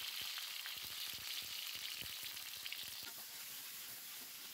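Sliced onion sizzling in hot oil in a wok: a steady crackling hiss that eases slightly, with a spatula stirring the onion near the end.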